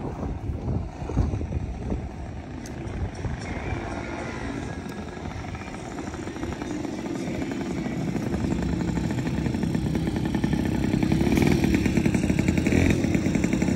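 Motorcycle engine running with a steady rapid firing pulse, growing louder over the second half.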